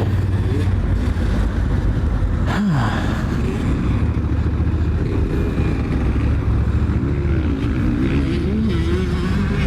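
Honda Africa Twin's parallel-twin engine running at a low, steady pace as the bike is ridden gently, with one brief dip and rise in the engine note about two and a half seconds in.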